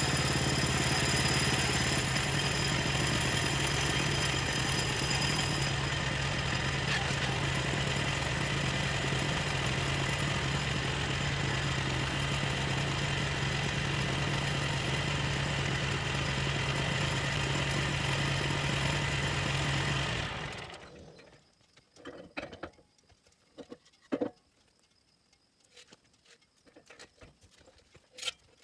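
Sawmill engine running at a steady pitch with a strong low hum, then shut off about 20 seconds in, dying away within a second. A few light clicks and knocks follow.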